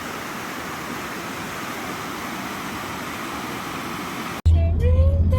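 A steady, even hiss of rushing noise. About four seconds in it cuts off abruptly, replaced by a louder low hum with a voice or music over it.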